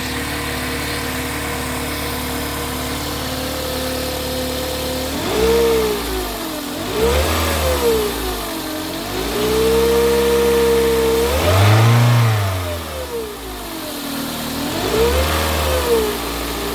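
2008 Toyota Corolla 1.8 XEi engine idling steadily, then revved up and down several times, once held at higher revs. It carries the abnormal noise the owner likens to a pulley or to something blowing hard, which he traces to the belt-driven alternator.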